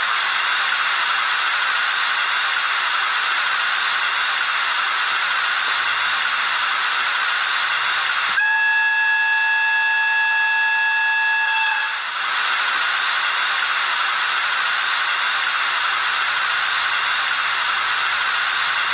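ESU LokSound sound decoder in an HO-scale EF210 electric locomotive model, playing a steady hissing running sound through its small speaker. About eight seconds in, it sounds the locomotive's whistle as one held tone for about three seconds, then the steady sound returns.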